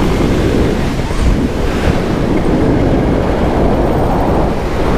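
Loud, steady rush of wind over the microphone of a paramotor pilot diving in flight.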